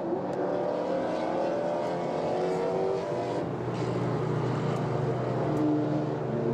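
Ferrari FF's V12 engine heard on board, pulling with its pitch slowly rising, then settling to a steady note about three and a half seconds in.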